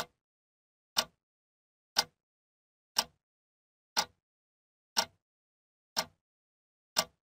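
A countdown timer ticking off the seconds: one sharp click each second, evenly spaced, with dead silence between the ticks.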